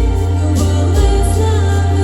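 A singer holding long notes over instrumental accompaniment with a steady bass and light cymbal strokes.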